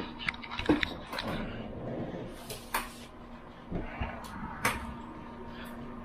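Scattered light clicks and knocks, the sharpest about a second in and again near five seconds, over a steady low hum.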